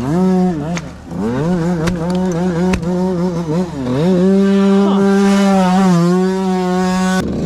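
Two-stroke dirt bike engine revving up and down several times, then held at high revs for a few seconds, with a brief drop near the end.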